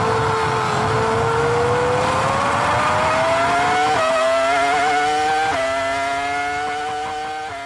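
Formula 1 V10 engine at high revs, heard onboard, pulling hard up through the gears. Its pitch climbs steadily, then drops sharply at each upshift, about four seconds in, again a second and a half later, and once more at the very end. The sound fades out over the last couple of seconds.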